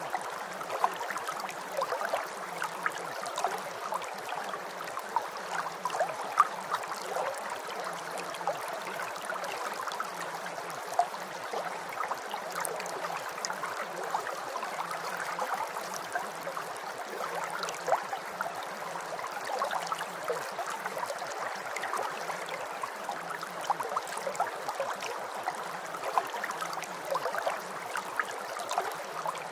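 Steady rain: an even hiss of falling water dotted with many small ticks of individual drops.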